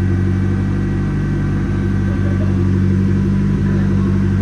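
Turbocharged Volvo engine in a race car running steadily on a chassis dyno.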